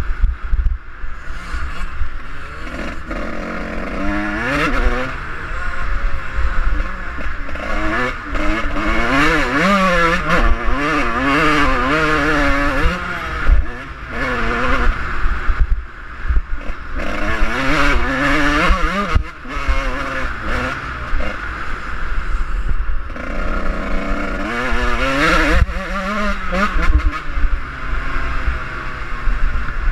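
Suzuki RM125 two-stroke dirt bike engine being ridden hard, revving up and down over and over, its pitch climbing and falling, with several brief drops as the throttle is shut off.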